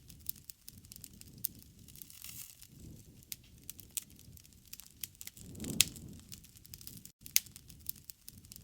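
Campfire crackling: burning wood gives off scattered sharp pops over a low rumble of flame, with the loudest pop about six seconds in. The sound cuts out for an instant just after seven seconds.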